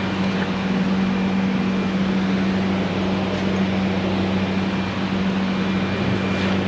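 Steady electric hum with an even rush of air, typical of a shop fan or ventilation unit running.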